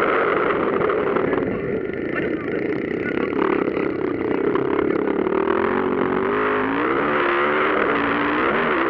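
Motocross motorcycles racing, their engines revving up and down over a dense, steady engine noise. The pitch swings are plainest in the second half.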